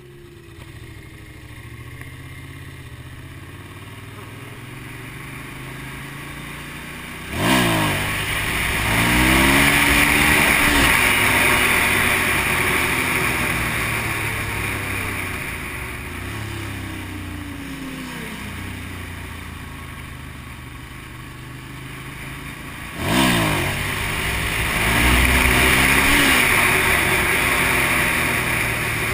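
Motorcycle engine heard from the rider's seat: about seven seconds in it surges into hard acceleration, climbing up through the gears in steps with a rush of air noise, then eases off; a second hard acceleration follows near the end.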